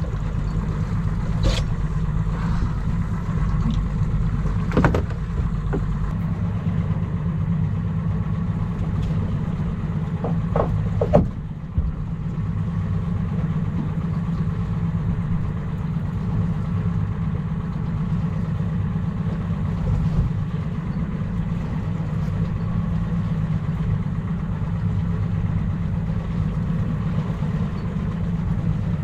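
Boat's outboard motor running steadily, with a few short sharp knocks, the loudest about eleven seconds in.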